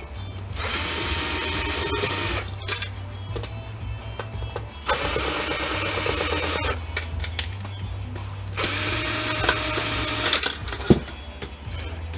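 Power drill/driver run in three bursts of about two seconds each, with a steady whine, driving out screws, over background music. A single sharp click comes near the end.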